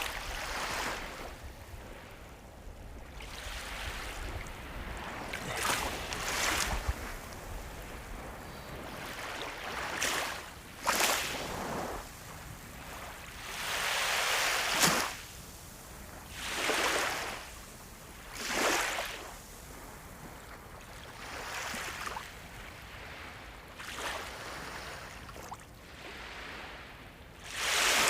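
Ocean waves breaking and washing on a shore, each wave a rising and falling rush of surf every couple of seconds over a steady hiss of water.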